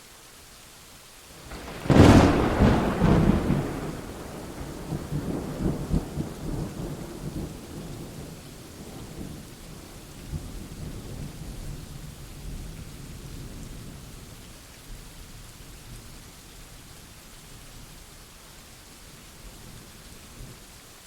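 A thunderclap over steady rain: a sudden crack about two seconds in, a few more loud peals right after, then rolling rumbles that slowly fade over the next fifteen seconds or so, leaving the even hiss of rain.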